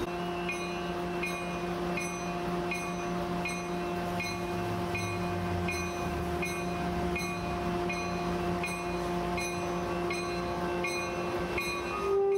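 Commuter train rolling slowly out past a grade crossing: a steady drone, with the crossing bell ringing a bit more than once a second. The train's horn starts to sound right at the end.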